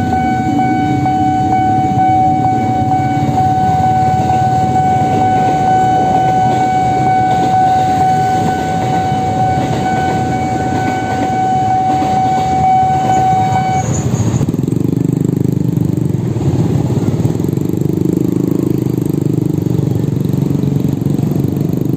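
Electric motorbike on the move, with steady low rumble of wind and road noise. A steady high whine that holds one pitch cuts off about 14 seconds in.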